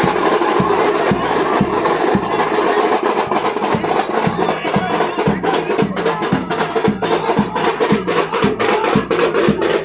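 A live band playing music: a steady low drum beat about two hits a second under held melodic tones, with quick sharp percussion ticks coming in about three seconds in.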